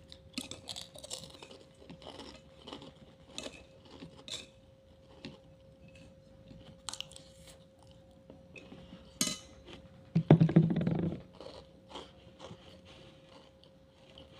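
Crunchy food being bitten and chewed close to the microphone: many short, crisp crunches, with a louder stretch about ten seconds in. A faint steady hum runs underneath.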